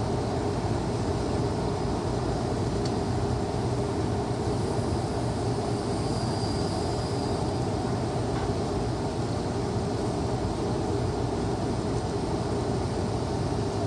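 Steady, even rumble of outdoor background noise, heaviest in the low end with a constant low hum, and a faint high whine for a second or so about six seconds in.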